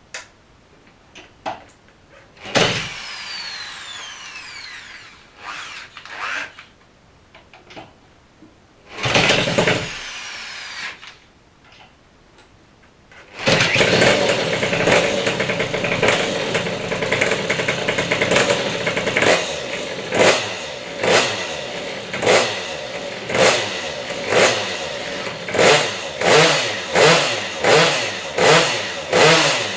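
Small single-cylinder minibike engine being started: two short cranking attempts that sputter and die, then it catches about 13 seconds in and keeps running. From about 19 seconds in it is revved in short blips about once a second, quickening toward the end.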